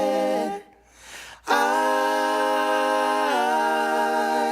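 A cappella singing: the voices end the sung word "feeling" about half a second in, then after a short pause hold one long chord that steps down in pitch near the end.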